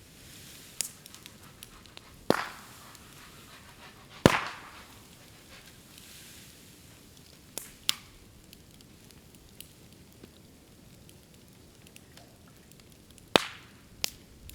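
Bamboo burning in a bonfire: sharp popping bangs as the hollow bamboo segments burst in the heat, about seven in all with the loudest about four seconds in, and light crackling of the fire between them.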